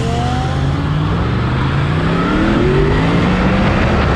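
Yamaha MT-10's crossplane inline-four engine accelerating hard through the gears. Its pitch climbs steadily, drops at a shift and climbs again.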